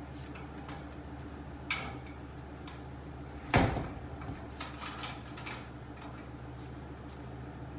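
A few clicks and light knocks over a steady low hum, with one loud, ringing knock about three and a half seconds in and a smaller one just under two seconds in.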